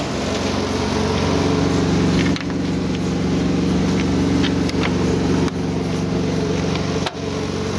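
Cummins ISX diesel engine of a 2010 Peterbilt 386 truck idling steadily, with brief breaks in the sound three times.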